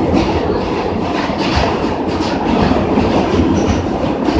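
Subway train running at speed, heard from inside the car: a steady loud rumble of wheels on track with rhythmic clatter.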